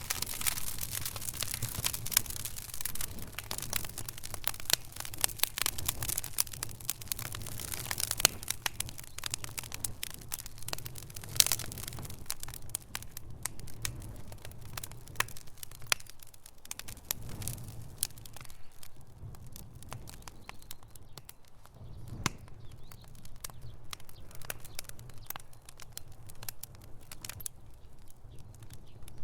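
Wood fire crackling, with a constant scatter of sharp pops and snaps over a low rumble of burning. A few louder pops stand out, one about a third of the way in.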